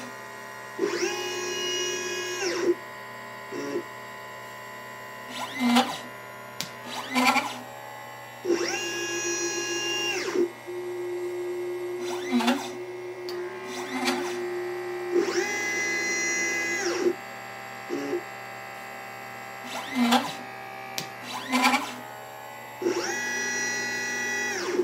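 LitePlacer pick-and-place machine's stepper motors whining through four gantry moves, the pitch rising, holding and falling in each one. Between the moves come short clicks as the machine picks up and places parts.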